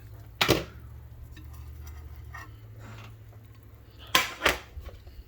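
Sharp, hard clacks around a Samsung microwave just after its pizza cycle has finished: one about half a second in and two close together near the end, over a low hum that drops about two and a half seconds in.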